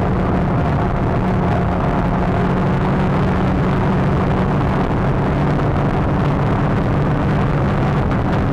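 Renault Clio 182's 2.0-litre four-cylinder engine running hard under way, heard onboard, its pitch holding nearly level with small shifts, over heavy road and wind noise.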